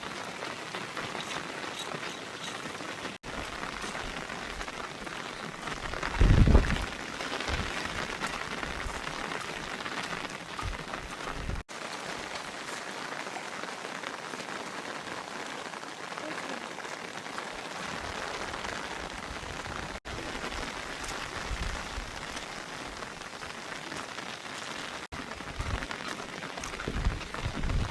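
Steady heavy rain falling, with a brief low thump about six seconds in, the loudest moment, and a few smaller low knocks near the end.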